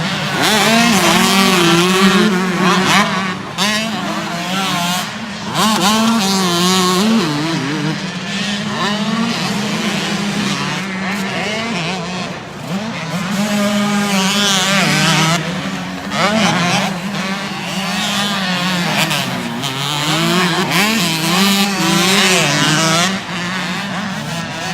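Motocross dirt bike engines racing, revving up and down with the throttle, several bikes overlapping.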